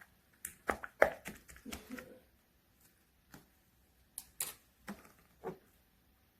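Clear slime being pressed and worked by hand, making a run of sharp clicks and pops in two bunches about three seconds apart.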